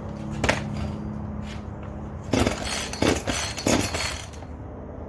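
A click, then four short clattering rattles between about two and four seconds in, from handling the chainsaw and its fuel can, over a steady low hum.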